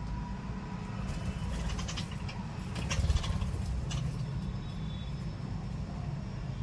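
Pet lovebirds and budgies chirping in short calls over a steady low rumble, with a cluster of sharp chirps and clicks in the middle.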